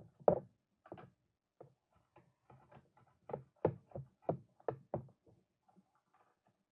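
Parts of a 1:18 scale model car being handled and set down on a hard surface: irregular light clicks and knocks, with a sharp knock just after the start and a quick run of them around the middle.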